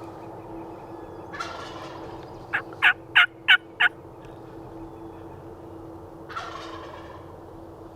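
Wild tom turkey gobbling twice, a rattling gobble about a second and a half in and another near the end, with a run of five loud, sharp yelps in quick succession between them.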